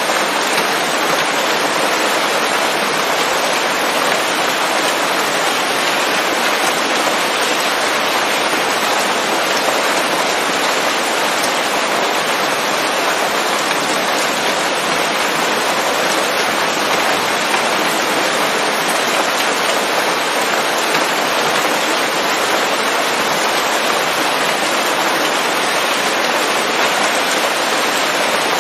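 Steady heavy rain falling on leaves, a dense even hiss of drops.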